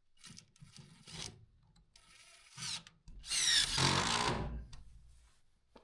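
Pen panels being slid and scraped into place: a few short scraping rubs, then a longer, louder scrape about three seconds in, with a small knock near the end.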